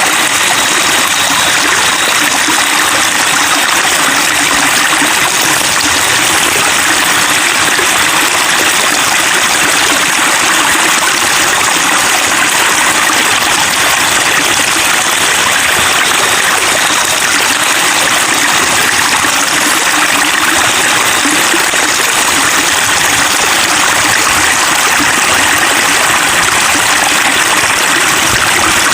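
Running water trickling and babbling, a steady, even flow with no breaks.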